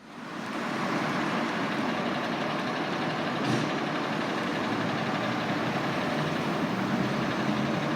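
A fire engine's diesel engine running loud and steady, coming up quickly over the first second.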